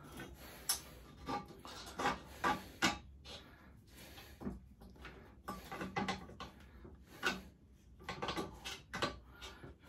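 Galvanised washers and small metal parts being handled and fitted: irregular light clicks and knocks, a dozen or so, with a few sharper taps.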